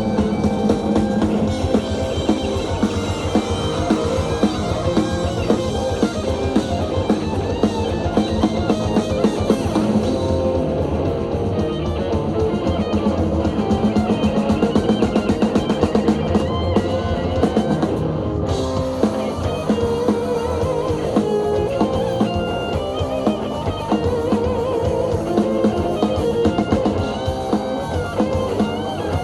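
A rock band playing live, with electric guitar and drum kit carrying an instrumental stretch of the song without singing.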